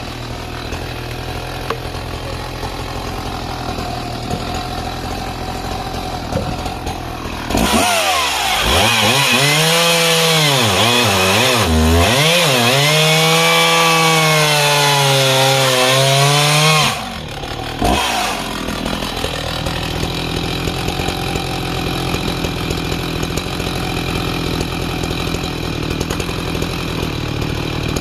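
Husqvarna 61 two-stroke chainsaw idling, then revved up about seven seconds in. It runs at high revs for about nine seconds, its pitch dipping and recovering before holding steady, then drops back to idle with one more brief blip.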